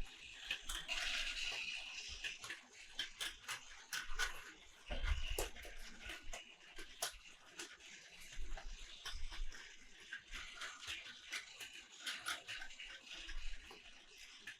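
Plastic toy pieces being handled: irregular sharp clicks and light knocks over a rustling hiss, with a few soft thuds.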